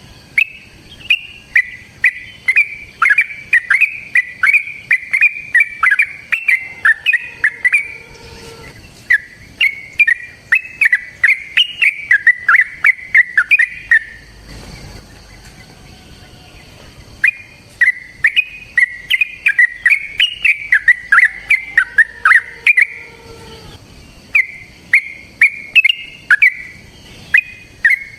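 Yellow-vented bulbul (trucukan) singing long runs of quick, repeated chirping notes, in four runs of several seconds each with short pauses between them.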